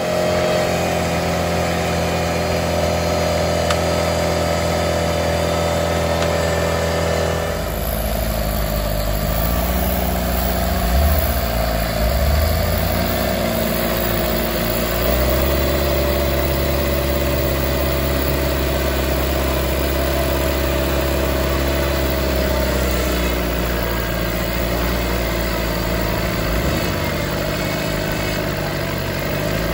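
4x4 off-road vehicle engine running at idle with a deep low rumble. It revs briefly a few times about ten seconds in, then settles back to a steady idle.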